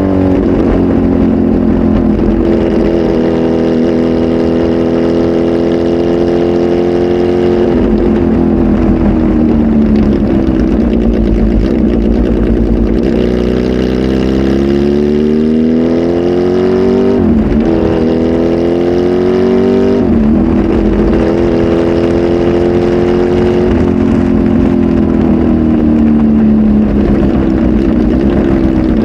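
Kawasaki Z H2 SE's supercharged inline-four, flash tuned and fitted with a full exhaust system, running loud. Its pitch holds steady, then climbs and drops sharply twice, about 17 and 20 seconds in, and glides down near the end.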